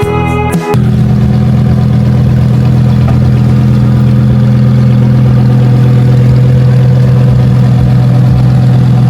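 Car engine running steadily, a loud, even low hum that holds at constant revs.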